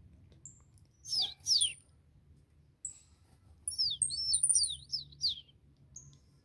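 Small songbirds in an aviary calling: two loud downward-sweeping chirps about a second in, a quick run of sweeping notes between about four and five seconds, and short high peeps scattered between.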